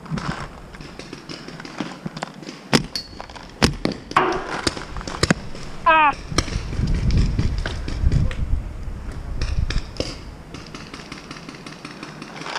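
Paintball markers firing scattered single shots, sharp cracks at irregular intervals, with low rumbling from movement or handling in the middle stretch.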